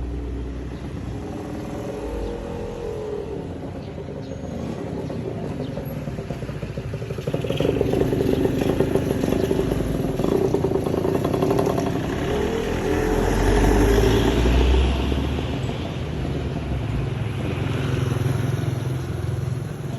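A car's engine running with road noise. It gets louder about seven seconds in and stays up, with a peak around fourteen seconds.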